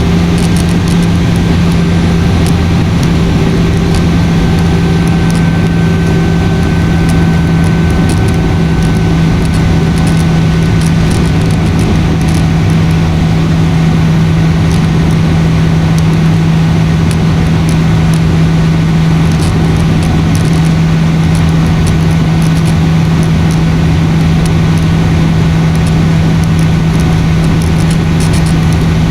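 Airliner cabin noise in flight: the steady drone of the engines and rushing air, with a strong low hum. A fainter higher whine fades away in the first dozen seconds.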